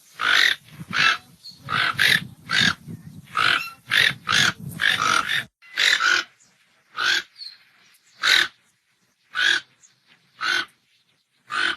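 A farm animal's short, shrill calls, repeated about once a second.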